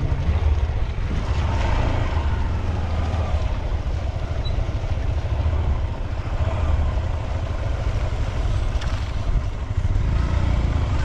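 Motorcycle running as it rides a rough, muddy road, with a heavy steady low rumble and faint rising and falling engine pitch.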